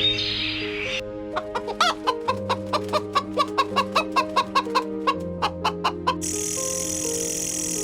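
A chicken clucking: a run of about twenty short, sharp clucks, about four a second, starting about a second in and stopping near the end, over background music.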